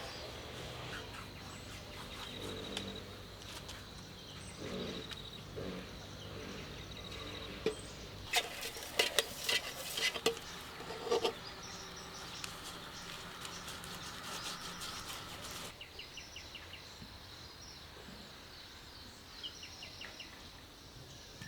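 Outdoor background of insects and birds chirping. A cluster of sharp clicks or knocks comes about eight to eleven seconds in, and a low hum stops about two-thirds of the way through.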